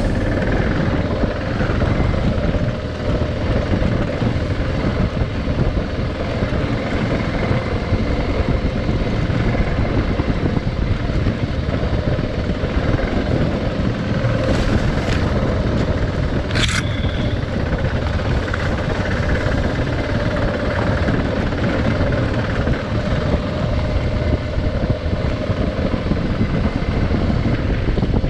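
Adventure motorcycle on the move, its engine running steadily under wind and road noise, with a few brief sharp clicks a little past halfway.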